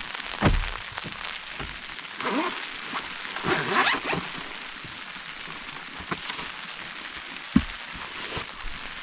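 Heavy rain falling steadily on the car, heard from inside, with a few knocks and a stretch of rustling from someone moving about.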